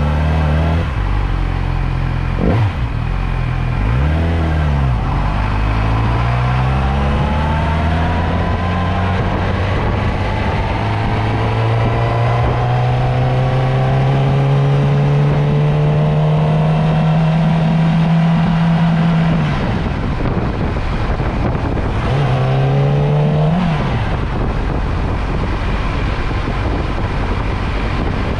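Motorcycle engine heard from the rider's seat: two quick revs, then a long steady climb in pitch as it accelerates. It falls off about two-thirds through, then rises briefly once more and drops.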